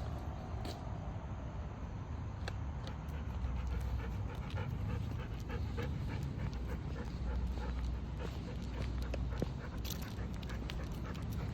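Golden retriever panting in a quick, fairly even rhythm over a steady low rumble.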